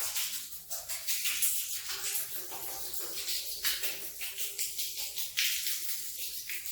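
Repeated hissy scrubbing strokes of a brush on a wet rug, coming unevenly about one or two a second.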